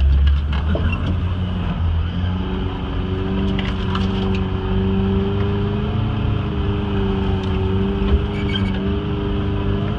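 Suzuki Samurai's four-cylinder engine running at low, steady revs as it crawls in low-range transfer-case gearing, heard from inside the cab. It settles to a steady tone about two and a half seconds in, with a couple of brief scratchy sounds near the middle and near the end.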